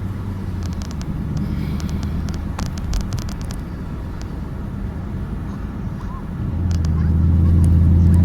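A car engine running with a steady low drone that grows louder about seven seconds in, as a vehicle comes closer or is revved, along with a few light clicks.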